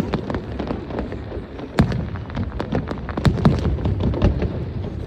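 Fireworks display: a dense, continuous run of bangs and crackling pops over a low rumble, with the biggest booms about two and three and a half seconds in.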